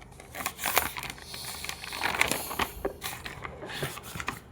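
Irregular crackling and clicking, with a faint low hum underneath.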